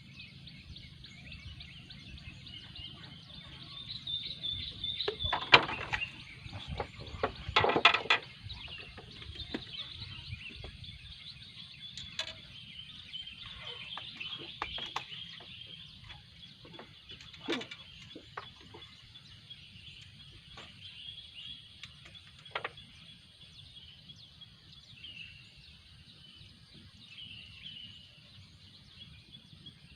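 Outdoor ambience: steady high chirping over a low rumble, broken by a few sharp knocks and clatters about five and eight seconds in, with smaller clicks scattered after.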